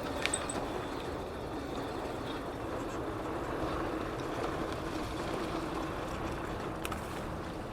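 Steady rolling and wind noise of a bicycle in motion, with a faint constant hum and a couple of light ticks near the end.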